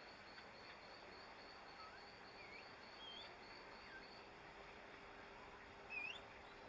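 Faint birdsong: short whistled chirps that rise and fall, over a high, evenly pulsed trill of about three or four pulses a second that stops about four seconds in. A louder rising chirp comes near the end.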